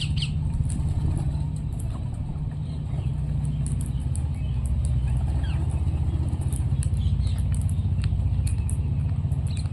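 A steady low rumble carries throughout, with faint, short parrot chirps and clicks scattered over it.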